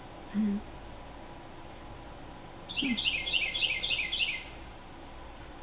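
Birds calling outdoors: a thin, high note repeated about every half second, and about halfway through a quick run of roughly seven falling chirps.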